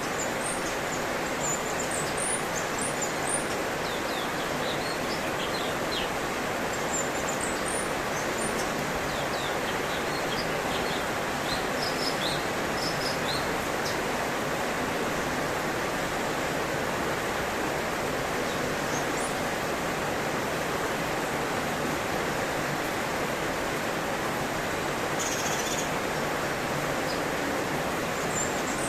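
Wild songbirds giving short high chirps and quick rising notes in scattered clusters, over a steady rushing noise that runs throughout.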